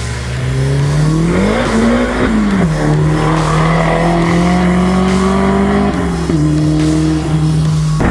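Big-turbo Volkswagen Golf GTI (Mk5) engine running. The revs climb and fall back about two seconds in, then hold at a steady pitch, with a brief dip about six seconds in.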